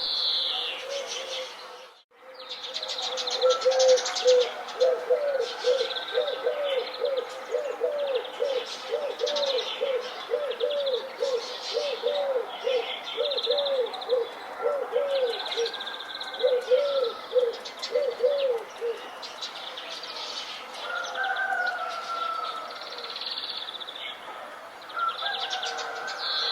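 Several wild birds chirping and singing in a dense mix of short high calls and trills. From a few seconds in until past the middle, a low note repeats about twice a second under them. The sound drops out briefly about two seconds in.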